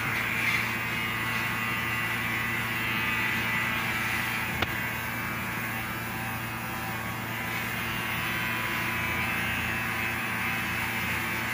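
Electric hair clippers running with a steady electric buzz, and one short click about four and a half seconds in.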